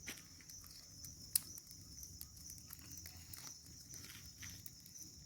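Bonfire of wood catching alight, crackling with scattered small pops and one sharper pop about a second and a half in, over a steady high chirring of insects.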